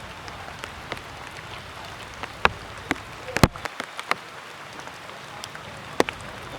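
Rainwater dripping from the trees after rain, irregular drops tapping over a steady hiss, with the loudest tap about three and a half seconds in.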